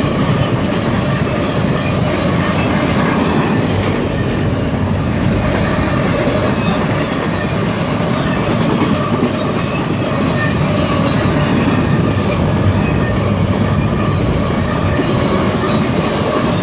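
Empty intermodal well cars of a stack train rolling past, a loud steady rumble of steel wheels on rail with faint steady high tones above it.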